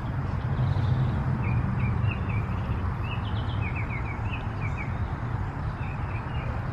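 Small bird chirping in a run of short, quick high notes, starting about a second and a half in and stopping near the end, over a steady low background hum.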